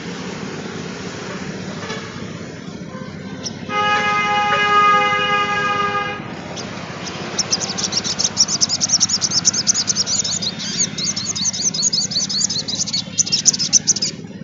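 Sunbird singing a fast, high, unbroken twittering song for the second half. Before it, a horn sounds one steady two-second honk, over a constant background hum.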